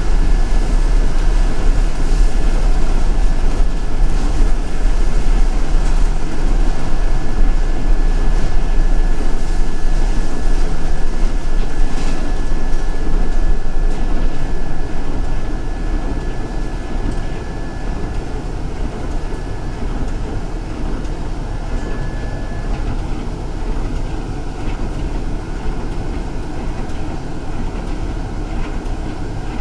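Ride noise inside a moving city transit bus: a steady, loud low rumble of engine and road with a thin steady high whine. It becomes quieter about halfway through.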